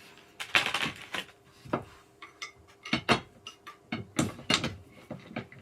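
Irregular knocks and clatter of gaming-chair parts being handled and fitted during assembly, with a short burst of rattling about half a second in and sharper knocks around three and four seconds in.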